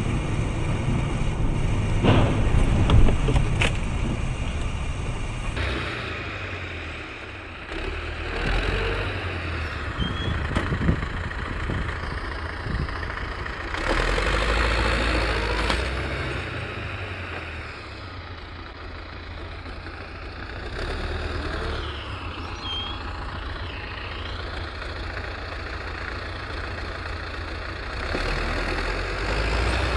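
Truck engine running and revving with changing load, with several sharp knocks about two to four seconds in.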